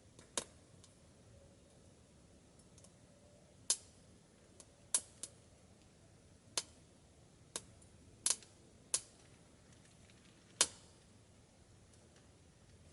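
Wood-burning stove fire of wood pellets and scrap wood popping: about ten sharp, short cracks at irregular intervals over a faint steady background.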